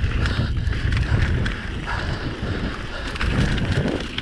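Mountain bike ridden fast downhill on a dirt trail: a steady rumble of tyres over the ground and of the bike rattling, with wind buffeting the camera microphone.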